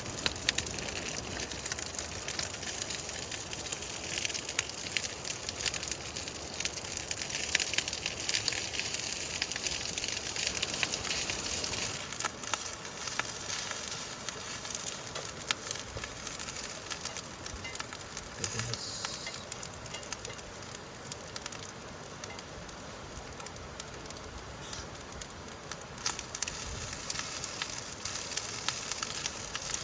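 Wood campfire crackling, a steady hiss with many sharp pops and snaps, busiest in the first half.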